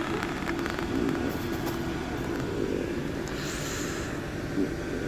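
Steady hum of a Class 350 electric multiple unit standing at the platform, with a short hiss about three and a half seconds in.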